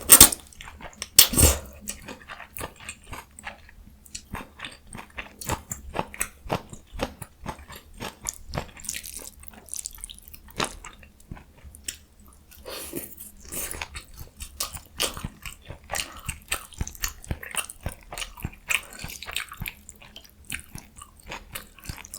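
Close-miked chewing of jjajang ramyun noodles and crunchy young summer radish kimchi. There are two loud bites about a second apart near the start, then continuous moist chewing with small crisp crunches.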